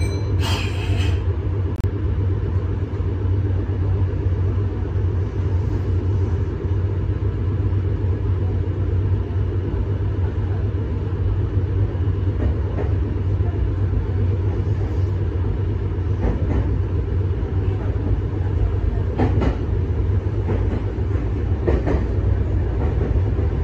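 Meitetsu 6800 series electric train pulling out of a station with a steady low hum and rumble. A brief sharp sound comes about half a second in, and a few clicks of the wheels over the rails come in the later part.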